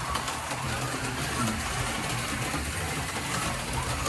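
Several HO scale slot cars running laps together: the steady whirring buzz of their small electric motors and gears, with light clicking from the cars on the track rails.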